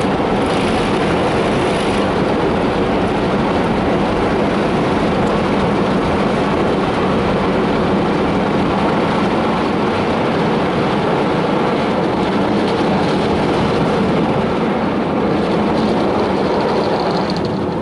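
Fast-spinning friction brushes of an Istobal tunnel car wash scrubbing over the car, a steady loud rush heard from inside the cabin.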